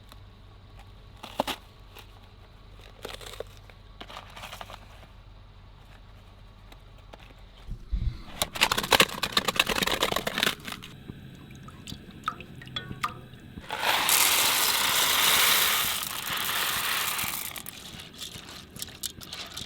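Camp-cooking handling sounds: a few scattered clicks, then a dense run of crackling and clatter about eight seconds in, followed by a steady hiss lasting about three and a half seconds.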